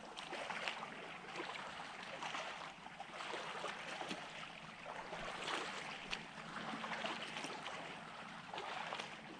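Water lapping and splashing: a steady hiss with many small, irregular splashes.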